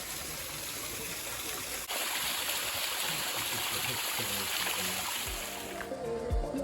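Steady rush of running water, like a garden stream or cascade, growing a little louder about two seconds in. Near the end it gives way to background music.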